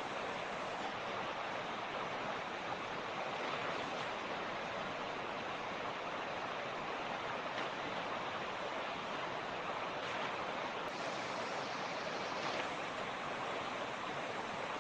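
Creek water rushing and splashing over rocks, a steady, even rush of noise.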